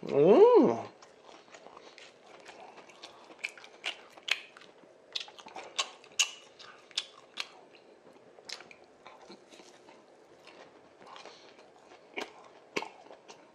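Close-miked chewing of a batter-fried Korean hotdog, with many scattered crunches and clicks. A short hummed vocal sound that rises and falls in pitch opens it and is the loudest part.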